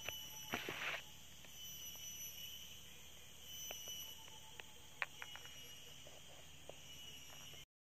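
Quiet forest ambience: a steady, high, thin insect drone, with a brief rustle about half a second in and a few faint scattered clicks. The sound cuts off abruptly just before the end.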